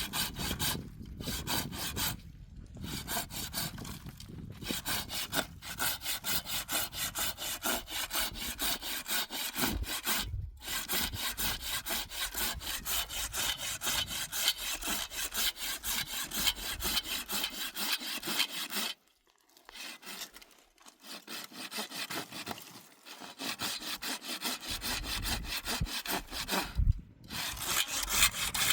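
Hand saw cutting through firewood in steady back-and-forth strokes. The strokes break off briefly a few times, with a longer pause about two-thirds of the way through before the sawing resumes.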